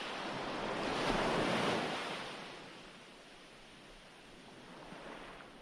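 Recorded ocean waves: a wave washes in and swells about a second in, then fades away, with a smaller swell near the end.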